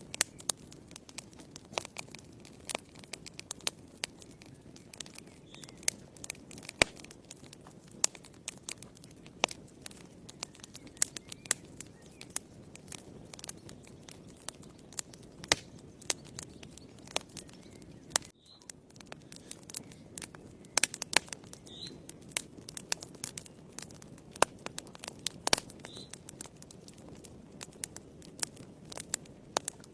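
Wood fire burning in a fireplace: irregular sharp crackles and pops over a low steady rush of the flames.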